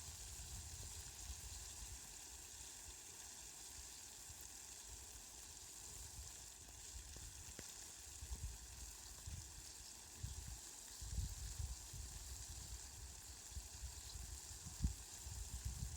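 Steady, faint hiss of rain. Irregular low rumbles come and go in the last third.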